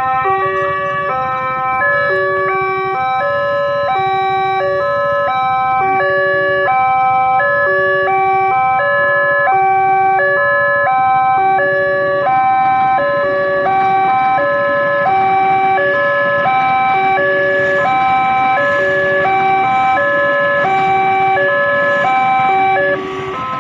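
Electronic warning signal: a loud sequence of buzzy tones stepping back and forth between pitches in a repeating pattern, cutting off abruptly near the end.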